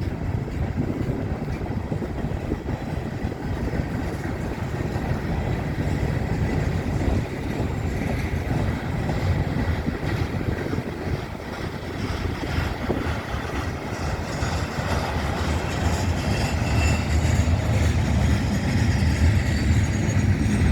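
Freight cars of a mixed freight train rolling past, a steady rumble of steel wheels on the rails that grows somewhat louder near the end.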